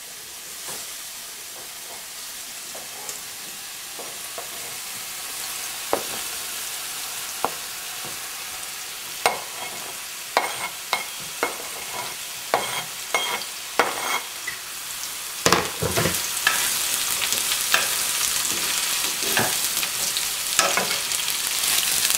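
Chunks of ridge gourd (jhinge) dropping into a pan of potatoes frying in hot oil, with a metal spoon clicking against the cutting board and pan. About two-thirds of the way through the frying sizzle grows louder and keeps going as the vegetables are stirred.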